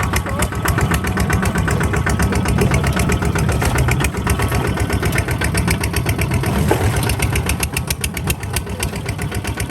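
Kubota RT140 DI single-cylinder diesel engine running steadily with an even, rapid firing knock.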